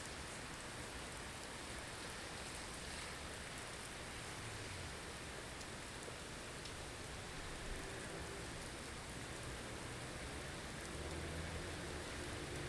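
Blizzard ambience: a steady rush of wind-driven snow noise, with faint low tones coming in near the end as the level rises slightly.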